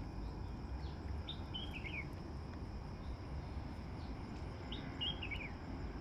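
A wild bird calling twice, the same short falling phrase about three seconds apart, over a steady high insect drone.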